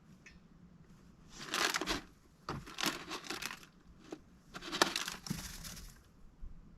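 Three bursts of crinkling rustle, each about a second long, with a few sharp clicks among them.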